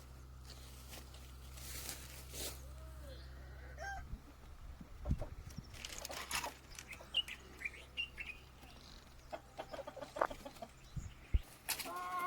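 Chickens clucking in short, scattered calls, with a few brief rustling bursts in between.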